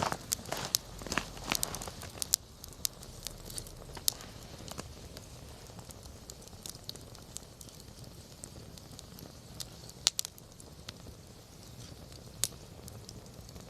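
Wood campfire crackling, with single sharp pops every few seconds over a low steady hiss of the burning. The crackling is busier in the first two seconds.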